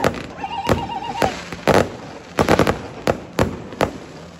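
Fireworks display: aerial shells bursting in a quick, irregular series of sharp bangs, about ten in four seconds, some coming in tight clusters. A brief wavering whistle-like tone sounds about a second in.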